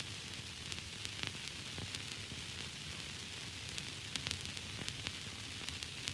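Static and white noise: a steady hiss with frequent irregular crackling clicks and a low hum underneath.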